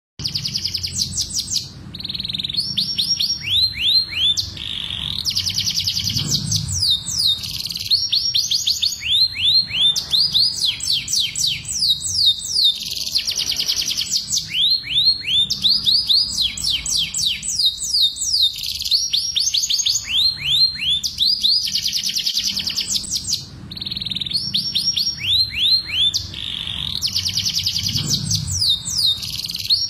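Domestic canaries singing in breeding song: fast rolling trills of rapidly repeated falling notes, high-pitched, in phrases that change every second or two without pause. A faint low hum runs underneath.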